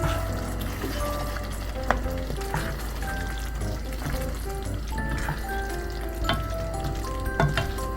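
Food frying and sizzling in a pan, with a few sharp clinks of a utensil against it, under light background music.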